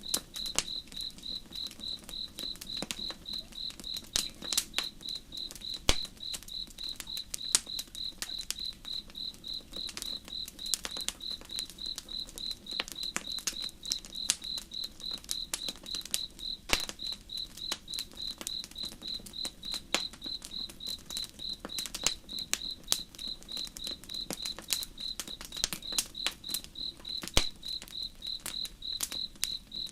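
Crickets chirping in a steady, evenly spaced rhythm at one high pitch, over the irregular sharp crackles and pops of a campfire and a soft low rush.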